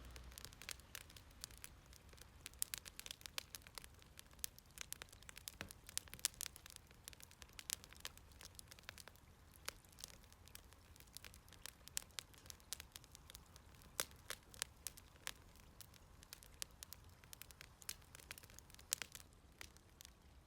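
Firewood burning in a fire pit, crackling faintly with irregular sharp pops and snaps, sometimes several in quick succession.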